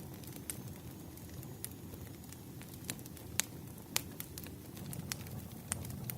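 Wood fire crackling: a steady low rumble of burning logs with scattered sharp pops, two of them louder a little past three and four seconds in.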